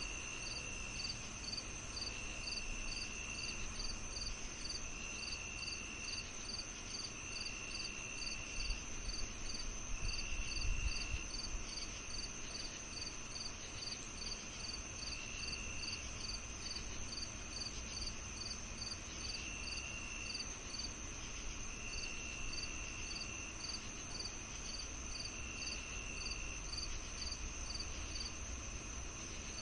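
Several crickets or other insects calling together on a summer evening: one steady high trill, a regular run of short chirps about two to three a second, and a lower trill that comes in bursts of about a second with gaps between. A brief low rumble swells a third of the way in.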